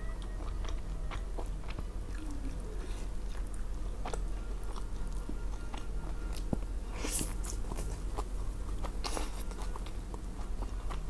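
Close-miked chewing of a mouthful of rice and greens, with wet mouth clicks and smacks, and two louder crunches about seven and nine seconds in.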